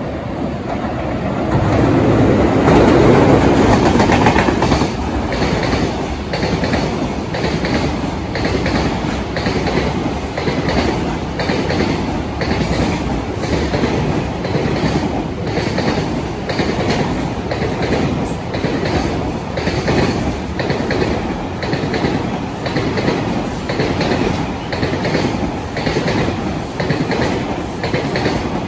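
Container freight train passing close by: a loud swell a couple of seconds in, then the steady rhythmic clickety-clack of the wagons' wheels over rail joints as they roll past.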